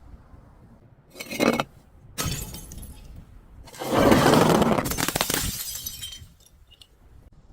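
Glass bottles breaking and crunching: a short burst about a second in, a sharper break about two seconds in, then the loudest, a long crunching of glass lasting about two seconds.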